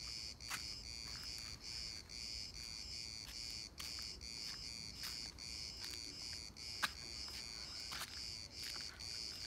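Crickets chirping in a steady, fast-pulsing trill, with scattered short clicks over it.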